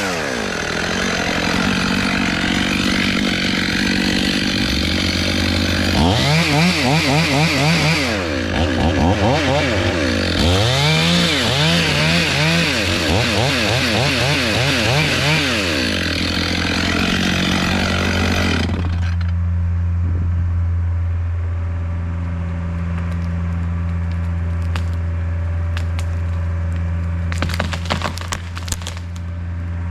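Chainsaw cutting beech wood, its engine speed rising and falling again and again. About two-thirds of the way through it drops to a steady idle, and a few sharp snaps follow near the end.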